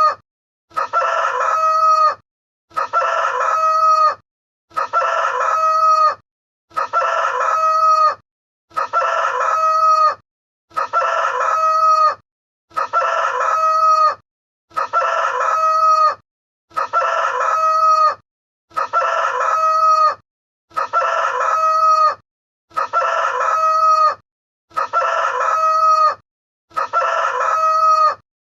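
Recorded rooster crow sound effect. The same short cock-a-doodle-doo is repeated about once every two seconds, with silence between, one crow per step of the count.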